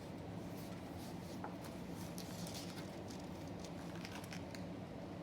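Soft rustling and light ticks of paper as picture-book pages are handled and turned, over a steady low hum.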